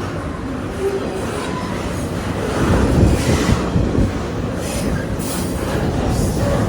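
A train rolling past on the track, a steady loud rumble of wheels on rail that swells about halfway through, with brief high hissing streaks near the end.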